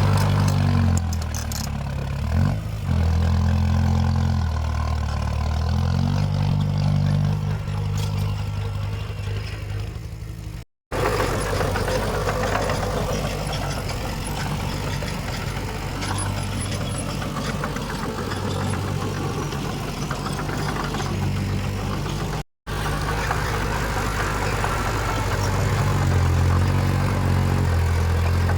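Heavy diesel engines of earthmoving machinery running, the low engine note rising and falling as they work. The sound cuts out abruptly twice, about eleven and twenty-two seconds in.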